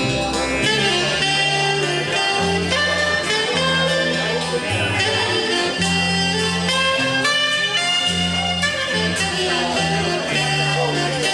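Live band playing an instrumental passage, a saxophone carrying the melody over a bass line that moves from note to note about once a second.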